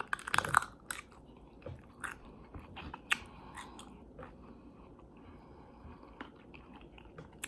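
A person chewing and biting food. There is a burst of short crisp clicks in the first second, then scattered softer chewing clicks.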